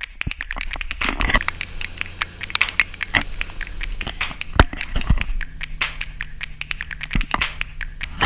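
Rain striking a vehicle's body in a storm: many irregular sharp taps, over a steady low engine hum.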